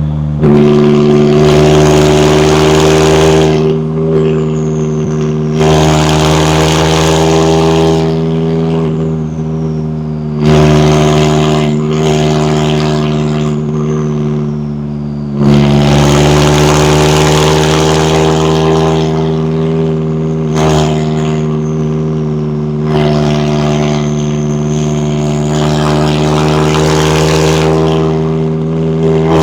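McLaren 570S twin-turbo V8 running at a steady engine speed while driving. The throttle opens and closes several times, making it louder and harsher for a few seconds each time, and a faint falling whistle follows some of the lifts.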